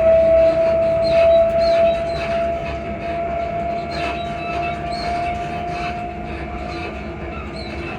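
Class 334 electric multiple unit running, heard from inside the carriage: a steady whine that creeps slowly up in pitch over rumbling running noise. Short, irregular squeaks and creaks from the suspension keep coming through.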